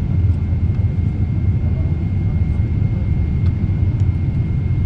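Steady cabin noise of a Boeing 777-300ER descending on approach: an even low rumble of engines and airflow, with a thin steady high tone.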